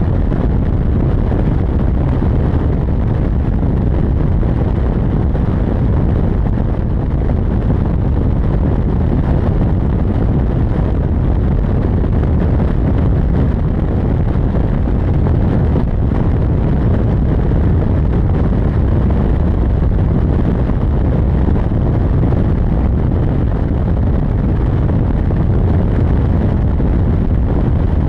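Steady low rumble of a 2001 Ford F350's 5.4-litre Triton V8 and its tyres on the road while under way, with wind buffeting the microphone.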